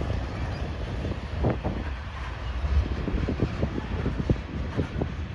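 Yard-job freight train rolling past: a steady low rumble with irregular clicks from the wheels, and wind on the microphone.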